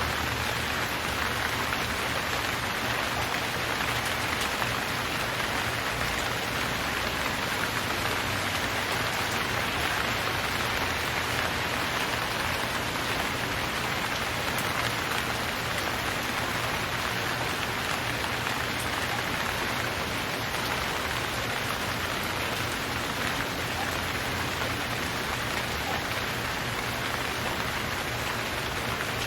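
Steady rain falling and pattering on surfaces, an even hiss with no break or thunder.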